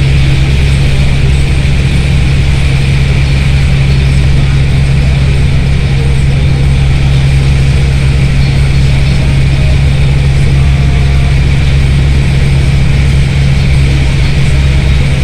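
Bus engine with a steady, loud low drone under an even hiss.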